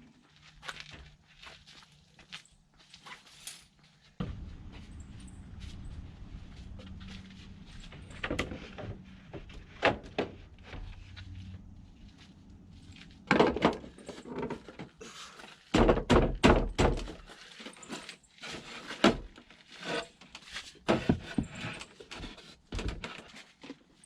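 Irregular knocks and thumps, loudest in a cluster about two-thirds of the way through, with a steady low rumble underneath for several seconds in the first half.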